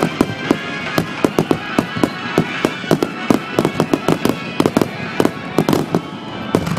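Aerial fireworks going off in quick, irregular succession, several sharp bangs a second. Under them, music is played over the display's loudspeakers. Picked up by a digital camera's microphone, the bangs sound distorted.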